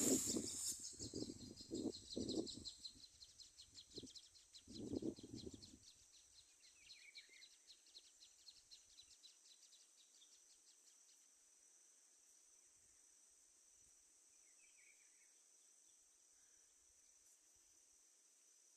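Outdoor nature ambience: a steady high-pitched drone with a fast pulsing chirr that fades out about halfway, and a few faint bird chirps. Rustling and a few knocks during the first six seconds.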